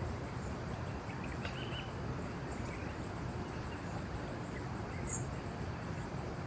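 Steady outdoor background noise with a few faint, short, high chirps from small animals of the woods, one brighter about five seconds in.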